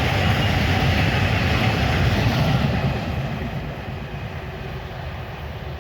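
A train passing at speed, a loud steady rumble and rush of wheels on rails that fades away over the last few seconds as it moves off.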